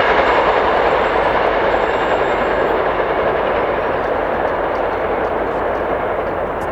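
Railcars rolling past on the track, a steady rushing rumble of wheels on rail that slowly fades.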